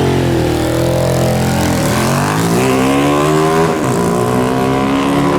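Motorcycle engine running through a newly fitted custom exhaust silencer, pulling away and accelerating hard: the pitch climbs, drops about two seconds in and again about four seconds in as it shifts up, then climbs again.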